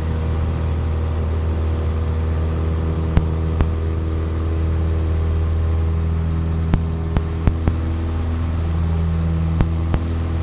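Piper Cherokee single-engine piston aircraft engine and propeller at full takeoff power during the takeoff roll, a steady drone. A few brief clicks sound over it.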